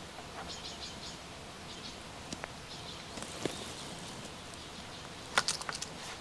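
Quiet forest ambience with a small bird's high, short chirping phrases repeated several times in the first half. A few faint clicks follow, then a sharp click with a quick run of smaller clicks and knocks near the end.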